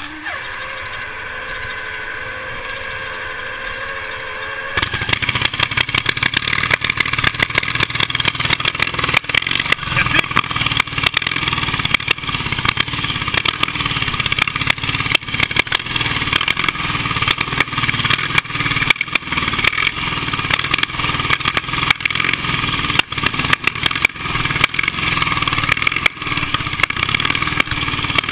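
Vintage racing motorcycle engine catching suddenly about five seconds in, then running on with a rapid, uneven patter of exhaust beats as the bike rides off.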